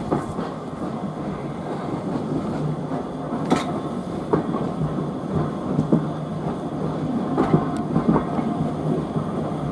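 Steam-hauled railway carriage running along the track as the train gets under way, a steady rumble with irregular clicks and knocks from the wheels over the rails, heard from aboard the train.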